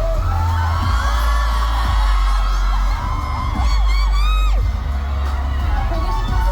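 Live pop music with a heavy bass beat played loud through a concert sound system, with high whoops and screams from the audience rising over it.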